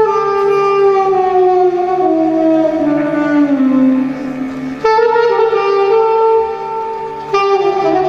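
Instrumental Turkish art music played on a reed wind instrument. The melody steps down note by note over about four seconds, then starts a new phrase higher up about five seconds in and again near the end.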